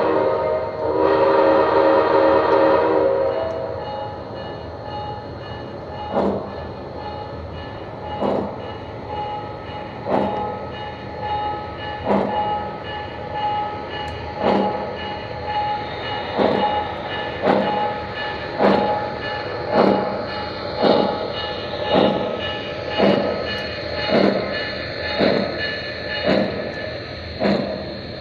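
Lionel O gauge TMCC locomotive's sound system sounding a long chord-like horn blast for about three seconds, then running sounds with sharp knocks that start about six seconds in, roughly one every two seconds and quickening to about one a second as the train gets under way.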